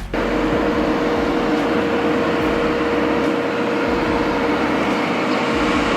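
Heavy vehicle engine running steadily: an even, loud rushing noise with a constant hum.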